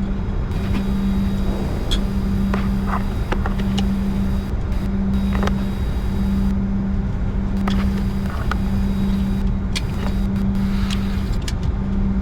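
Cockpit noise of a Bombardier Challenger 605 taxiing, its twin GE CF34 turbofans at idle: a steady low hum with a rumble beneath it. The hum drops out briefly every second or two, and a few light clicks sound over it.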